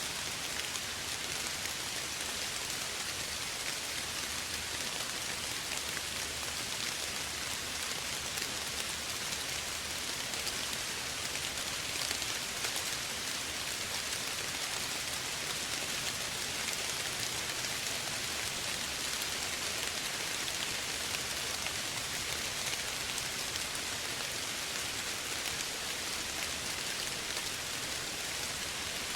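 Steady soft rain falling, a dense even patter of drops on a surface.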